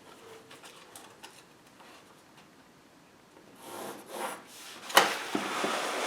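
A marking ruler and pencil are being handled on the plexiglass panel and bench, making quiet rubbing and scraping. After a few quiet seconds the rubbing comes in, with a sharp click about five seconds in.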